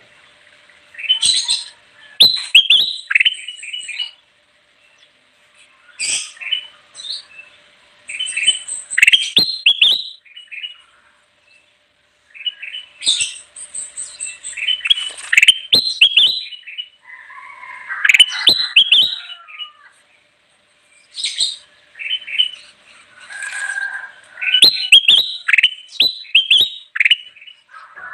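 Kutilang emas, a bulbul, singing loud, chattering phrases of rapid sharp chirps and short whistled notes, with brief pauses between the phrases.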